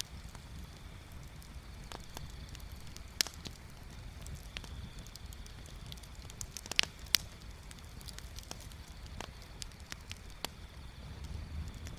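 Wood bonfire crackling, with scattered sharp pops; the loudest come about three seconds in and twice around seven seconds. A low steady rumble runs underneath.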